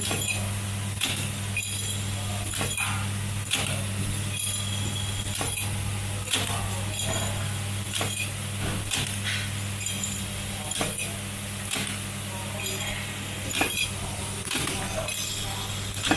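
Automatic fan-blade wheel assembly machine running: a steady low hum with sharp metallic clicks and clinks about once a second, as blade parts are pressed into the impeller wheel one by one.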